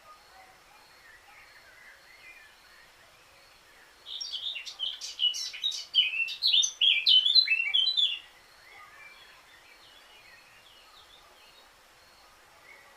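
Eurasian blackcap singing one warbling phrase of about four seconds, starting softer and turning louder and clearer in its second half, over faint distant bird calls.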